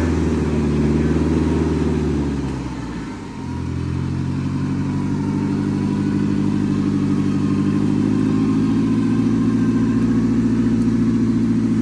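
Off-road 4x4's engine running with a steady note. About three seconds in it drops off briefly, then picks up again and holds steady.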